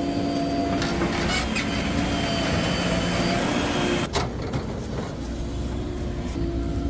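Heavy diesel machinery engine running steadily with a constant hum, with a short sharp break about four seconds in.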